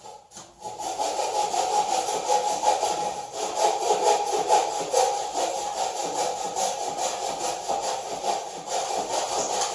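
Hand saw cutting through a wooden 4x4 in rapid, steady back-and-forth strokes, starting about a second in.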